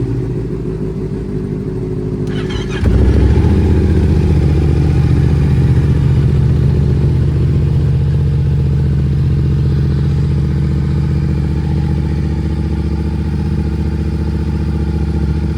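Motorcycle engine idling through an aftermarket exhaust during a cold start. About three seconds in, the sound suddenly steps up louder, as if a second engine catches, and then settles into a steady, deeper idle.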